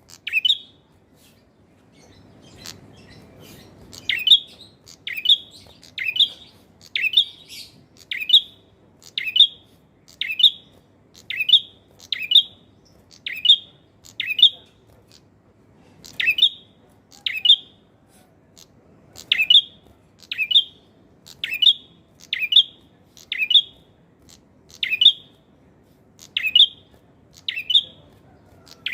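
Male prenjak (a prinia) calling energetically: a sharp, clear chirp repeated about once a second in a long steady series, with a brief pause about halfway through.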